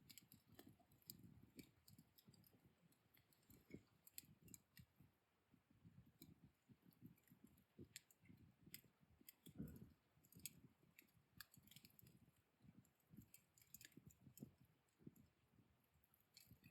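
Faint crackling of a wood fire burned down to embers: scattered small pops and ticks, irregular and never in a rhythm, over a soft, uneven low flutter.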